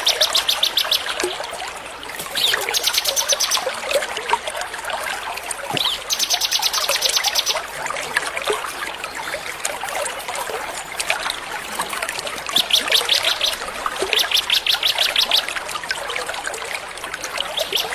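Small songbirds singing over trickling water, with bouts of very fast, high trilling notes lasting about a second each that recur several times.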